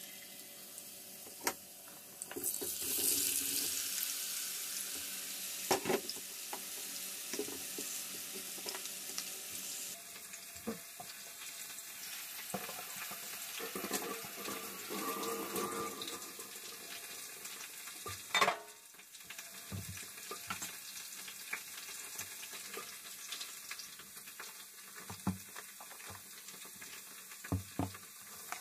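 Kitchen preparation sounds: a steady hiss with scattered knocks and clinks of utensils and dishes, and one louder knock near two-thirds of the way through.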